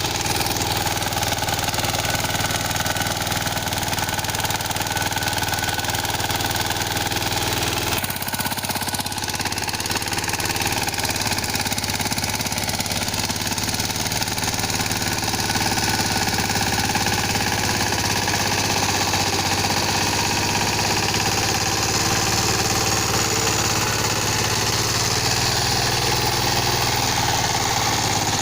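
Engine of a small row-crop tractor running steadily, with a brief dip about eight seconds in.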